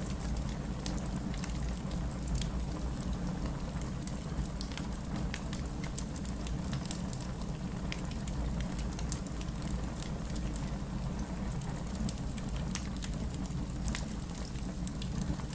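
Wood fire burning in a fireplace: a steady low rumble of flames with frequent small crackles and pops of burning logs scattered throughout.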